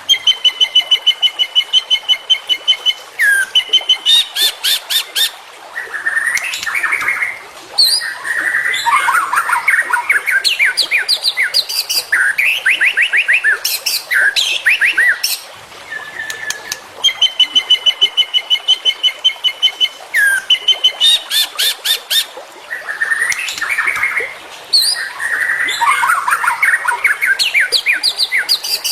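White-rumped shama song: a loud, varied run of rapid trills, whistled notes and chattering phrases. The sequence repeats about every 16 to 17 seconds, as in a looped tutor recording.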